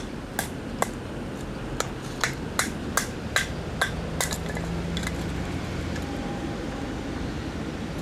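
Wood campfire crackling: about a dozen irregular sharp pops over a steady hiss of rain.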